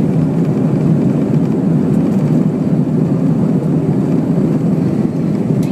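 Airbus A320 during takeoff: its jet engines and airflow give a loud, steady rumble.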